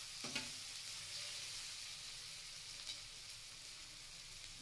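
Spiced onion and tomato masala frying in mustard oil in a kadai: a faint, steady sizzle, with a couple of light clicks about a third of a second in and near three seconds in.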